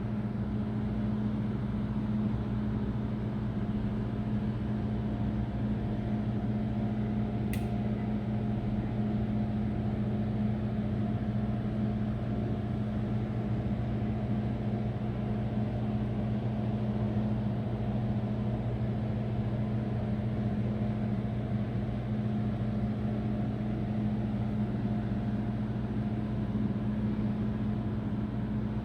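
A steady low mechanical hum, like a motor or fan running, with one brief faint click about seven and a half seconds in.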